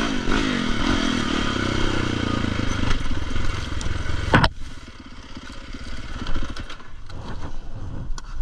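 Dirt bike engine running on a trail, its pitch rising and falling with the throttle, then a sharp crack about four and a half seconds in. After that the engine is much quieter, with scattered knocks and rattles.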